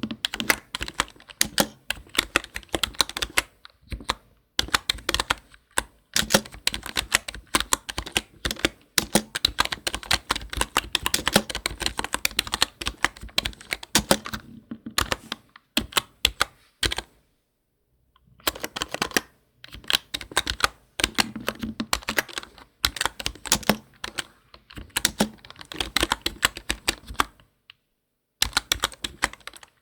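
Computer keyboard typing: rapid runs of key clicks, broken now and then by pauses of up to about a second.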